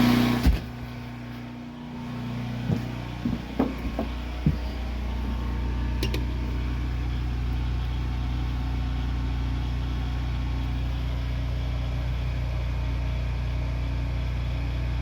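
Harbor Freight Predator 8750-watt generator's single-cylinder engine running steadily with an even low hum, now running after a carburetor replacement cured its no-start, and sounding so much quieter. A few sharp clicks come about three to four seconds in.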